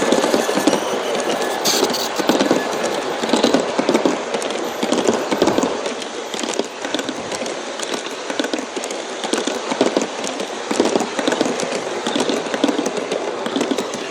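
G-scale model passenger train running on its track: a steady, dense clatter of metal wheels clicking over the rails.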